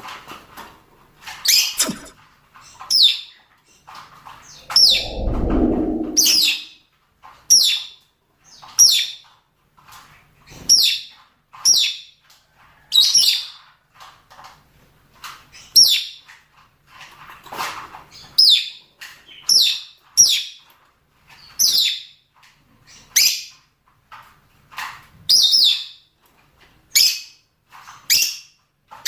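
Lovebirds giving their contact and courtship calls: a steady series of short, sharp, high-pitched shrieks, each dropping in pitch, about one every second or so. A low rumble lasting about a second comes through about five seconds in.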